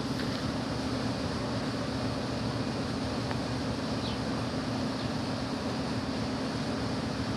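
Steady mechanical drone: a constant low hum over an even wash of noise, unchanging throughout, typical of a running engine or similar machinery.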